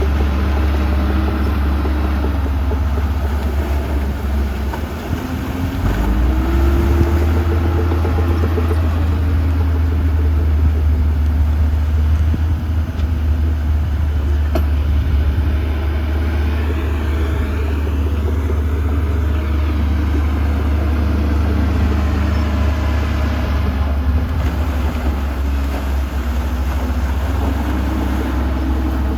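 Heavy diesel engine of earthmoving machinery running steadily with a deep rumble. It revs up about five seconds in and again near the end.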